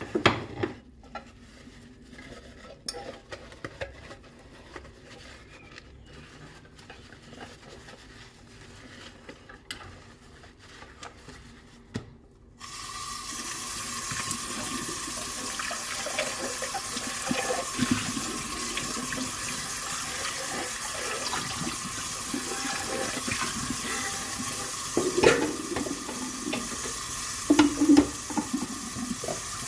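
Hand dishwashing at a sink: scattered clinks and knocks of dishes, then about twelve seconds in a kitchen tap is turned on and water runs steadily, with more clatter of dishes over the running water.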